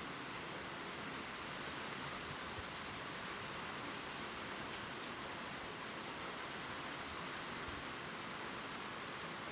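Steady gentle rain falling on leaves, an even hiss with occasional sharper drop ticks.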